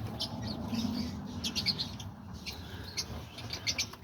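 Small cage birds chirping: a scatter of short, high chirps, several in quick clusters about one and a half seconds in and again near the end.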